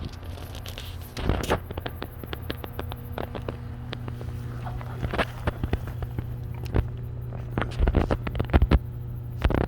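Freshly trapped feral kitten moving about inside a cage, with scattered knocks and rattles and a few louder clusters of bumps about a second in and in the second half, over a steady low hum.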